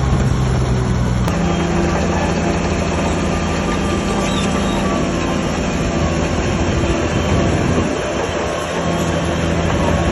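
Crawler bulldozer's diesel engine working under load, with the metallic squeal and clatter of its steel tracks. The engine note shifts suddenly about a second in, then holds steady.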